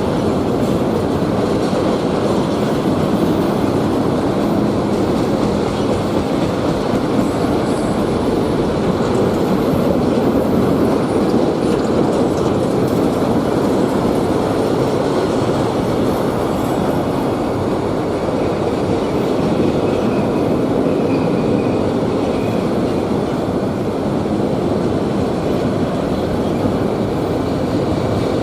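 Freight train cars rolling past at a steady speed: a continuous rumble of steel wheels on the rails, with a faint high squeal at times.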